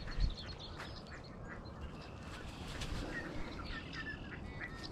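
Birds calling by the water: short, repeated calls over a low background rumble.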